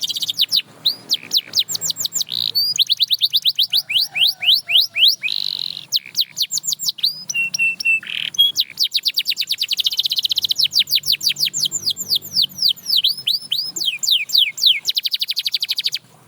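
Domestic canary singing: fast trills of sharply falling notes, several a second, strung into changing phrases with a short steady whistle partway through. The song cuts off abruptly near the end.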